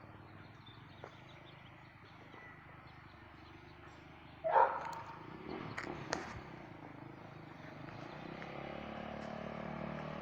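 Yamaha YZ426F single-cylinder four-stroke dirt bike engine running faintly, growing louder over the last couple of seconds. A short loud burst comes about four and a half seconds in.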